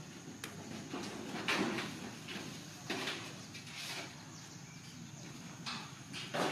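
A handful of short scuffing and knocking sounds at irregular intervals, about six in all, with the loudest near the end.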